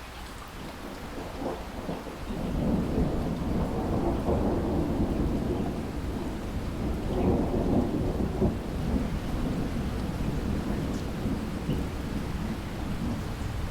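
Steady rain with a long roll of thunder. The thunder builds about two seconds in, is loudest over the next several seconds, then rumbles on more quietly.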